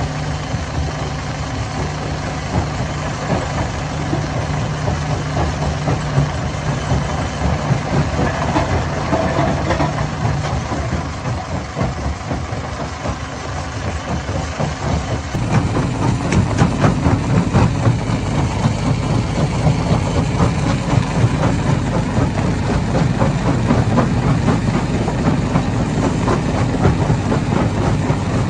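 Hammer-type stone crusher running steadily with a heavy engine hum. About halfway through, it turns louder and rougher, with rapid continuous knocking.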